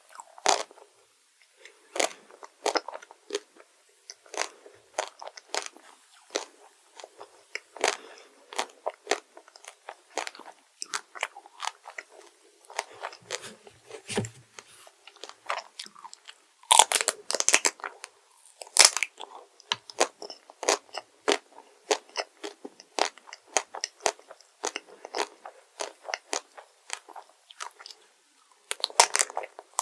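Close-miked eating sounds of someone biting and chewing crunchy chocolate sweets: a steady run of sharp crunches and clicks, with louder, denser crunching about halfway through and again at the end.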